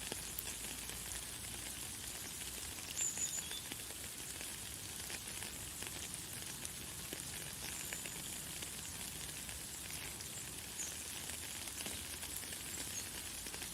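Light, fine rain falling steadily as an even hiss of tiny drop patter. A few faint, high bird chirps come through it, the clearest about three seconds in.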